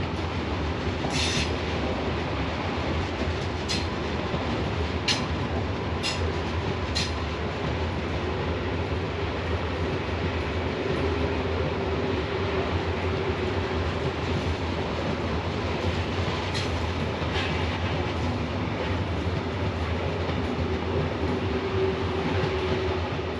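A train pulling slowly out of the station: a steady rumble with a low hum, broken by a few sharp clicks in the first seven seconds and once more later.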